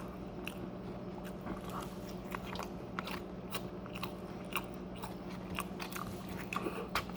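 Close-up chewing and biting of crunchy food, with irregular crisp crunches scattered throughout over a faint steady hum.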